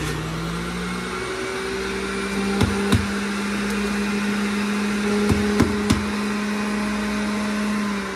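Electric centrifugal juicer (QCEN) running under load as fruit is pushed down its chute, a steady motor hum whose pitch rises a little about a second in. A few sharp clicks break in, twice a little before the midpoint and three times later on.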